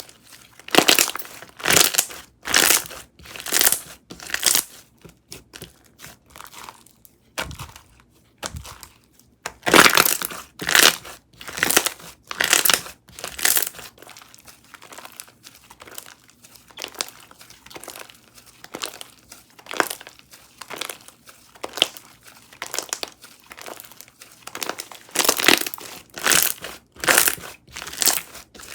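Hands pressing and squeezing a cereal-themed slime, giving repeated squishy, crackling presses about once a second. There are stronger runs at the start, around ten seconds in and near the end, with softer handling in between.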